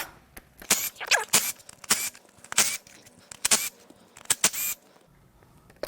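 Cordless impact wrench hammering in several short bursts on an oil filter housing bolt of a BMW S52 inline-six, with a brief squeal about a second in.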